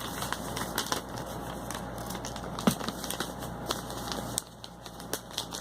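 Sheet of paper being folded and creased by hand, crinkling with irregular small crackles and one sharper crackle partway through.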